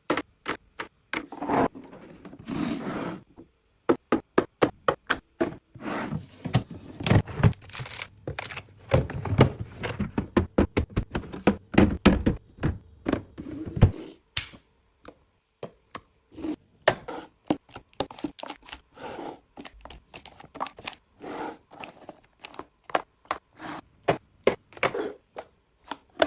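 Containers and packaging being handled and set into a refrigerator: a rapid series of clicks, taps and knocks of plastic and glass, with heavier thunks in the middle and bits of scraping and rustling.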